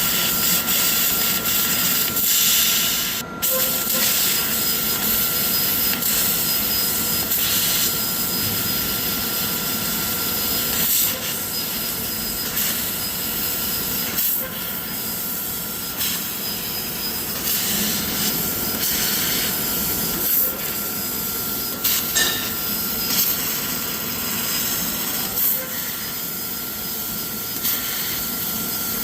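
CNC laser cutting machine running: a steady hiss with a constant high whine through it, broken by a few short clicks.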